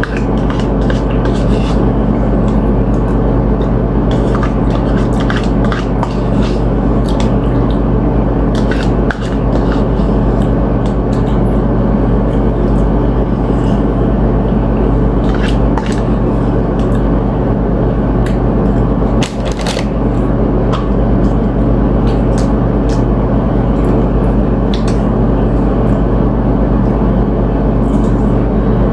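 Close-up eating: chips crunching and ceviche being chewed, in many short, irregular crackles and clicks, over a loud, steady background hum.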